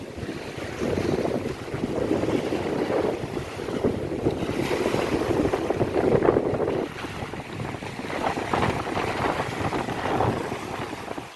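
Ocean waves washing onto a beach, with wind buffeting the microphone; the rush swells and eases in surges.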